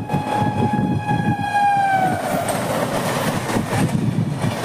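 Train horn sounding one long note for about two seconds, sagging in pitch as it dies away. Under it runs the steady rumble and rattle of a moving train's wheels on the rails.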